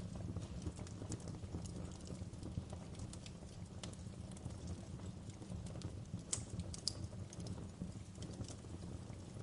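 Wood fire crackling in a fireplace: a steady low rumble of the flames with irregular small pops and snaps, two sharper pops a little past the middle.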